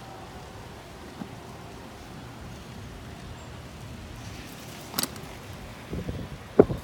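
Steady wind and rolling noise from a bicycle ride, with a sharp click about five seconds in and a few low knocks near the end, the last one the loudest.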